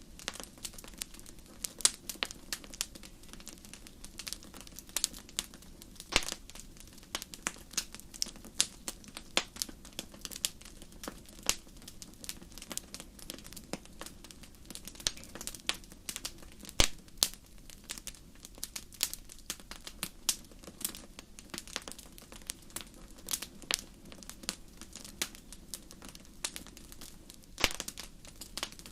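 Wood fire burning in a fireplace: frequent sharp, irregular crackles and pops over a low, steady hiss.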